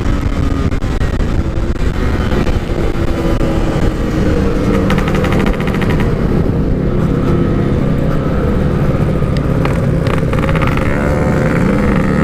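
Yamaha RX-King two-stroke single running at a fairly steady pace while riding, with heavy wind rush on the microphone.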